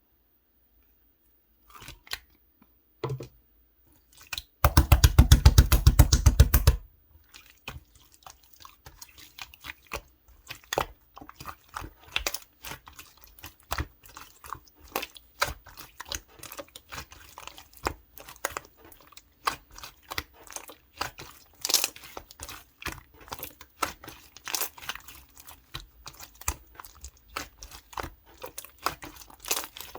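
Clear purple slime full of foam beads being squeezed and worked by hand, the beads crackling and popping in quick, irregular clicks. About five seconds in there is a loud burst of dense crackling that lasts about two seconds.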